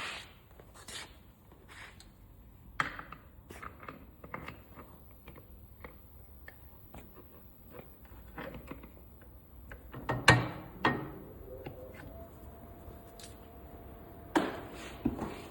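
Scattered clicks, knocks and rubbing of objects being handled, with one loud knock about ten seconds in and a faint steady tone from about twelve seconds on.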